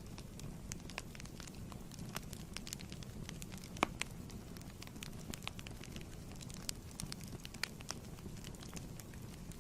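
Wood fire burning in a fireplace: a steady low rumble with irregular crackles and pops, one sharper pop a little before the middle.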